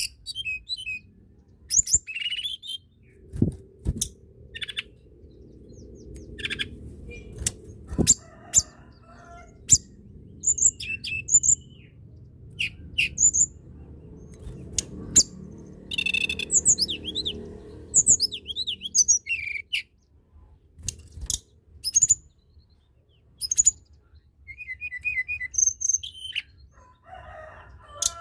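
Tledekan gunung (Sunda robin) singing: a run of short, high, sharp chirps and quick swooping whistles with brief pauses between phrases, and a short rapid trill late on. A low background rumble runs under the first half or so.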